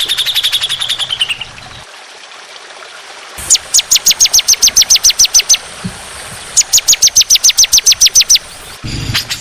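Songbird song made of rapid trains of sharp repeated notes. A quick run falls in pitch at the start, then come two bursts of about eight notes a second, each lasting around two seconds.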